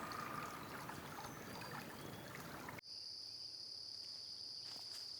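Running water of a stream, an even rush. About three seconds in it cuts abruptly to a steady, high insect chorus of crickets trilling.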